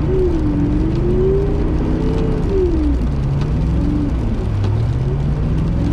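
Car engine heard from inside the cabin, its pitch rising and falling as it is revved up and down.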